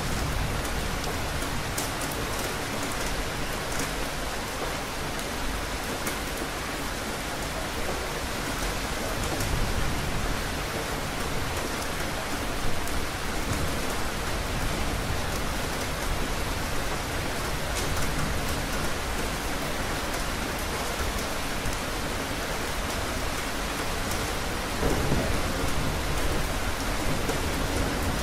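Steady heavy rain falling and pattering on surfaces, with a low rumble of thunder swelling about ten seconds in and again near the end.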